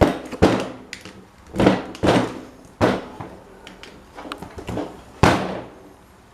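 A string of sharp knocks from hand tools on parts of an old electric fan being restored, about six at uneven spacing, some trailing into a short scrape, with small clicks between them.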